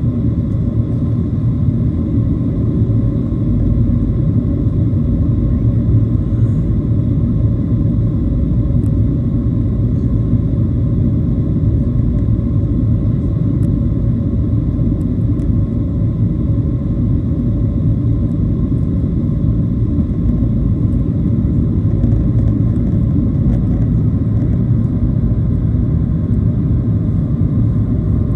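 Steady low rumble of a Boeing 737-700's engines and airflow heard from inside the passenger cabin, with faint thin steady tones above it.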